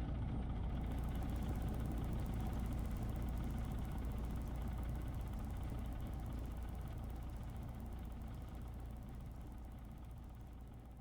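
Cessna's propeller engine idling steadily, heard from inside the cabin after landing. The sound slowly fades away toward the end.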